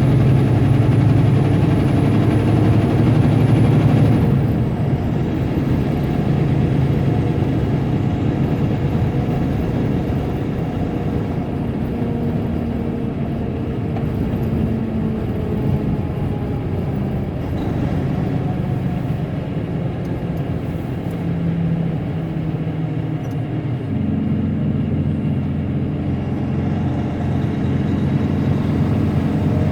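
Tractor-trailer's diesel engine running steadily, heard from inside the cab, with its pitch shifting a few times as the truck changes speed. A thin high whine fades out about four seconds in as the engine eases off.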